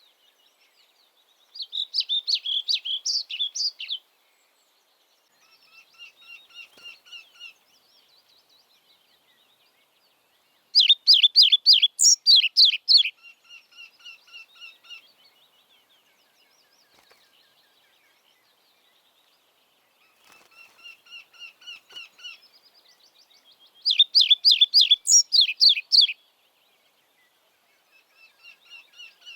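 Songbirds singing: three loud phrases of rapid repeated notes, each about two to three seconds long and spaced roughly ten seconds apart, with quieter song phrases from another bird in between.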